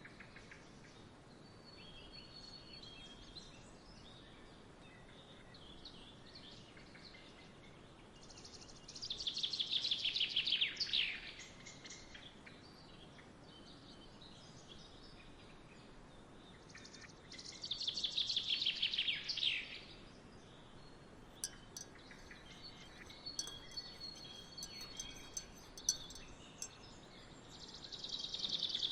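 Songbird singing: the same fast, descending trill of about two seconds comes three times, roughly every nine seconds, standing out over softer chirping. Between the second and third songs come a scatter of short, sharp ticks.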